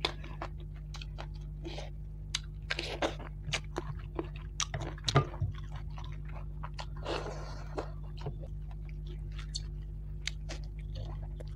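Close-miked chewing of rice and fish eaten by hand, with many short wet mouth smacks and clicks, the loudest about five seconds in. A steady low hum runs underneath.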